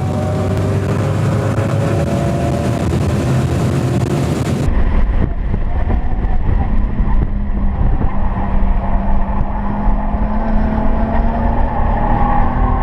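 Cadillac CTS-V's V8 running hard on a race track, under a wide wind-like hiss. About five seconds in, the sound changes abruptly: the hiss drops away, a deep rumble takes over and the engine note slowly rises as the car accelerates.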